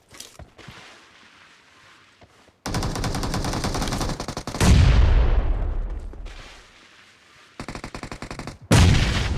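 Automatic gunfire in a shooter video game. A long stream of rapid shots starts about two and a half seconds in, heavier fire with a deep low end joins and fades away, and more bursts of fire come near the end.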